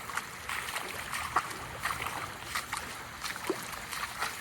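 Storm runoff from an overwhelmed street gutter rushing across a yard, with a steady wash of water and frequent irregular splashes and gurgles.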